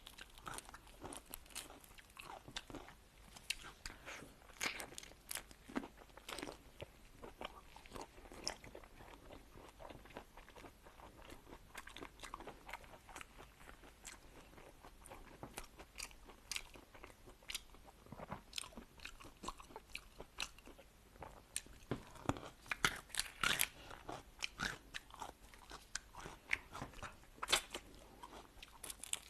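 Close-up eating sounds: repeated crunching bites and chewing, with a denser, louder run of crunches about three-quarters of the way through.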